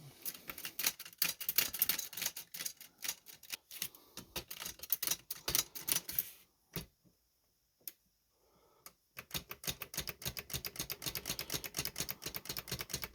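Chicago type-sleeve typewriter being typed on: keys struck in quick clattering runs for about six seconds, then a near-quiet pause broken by a couple of single clicks, then a fast, even run of clicks from about nine seconds in. The keys are being tested for sluggish action on a machine whose mechanism is gummy with old lubricant.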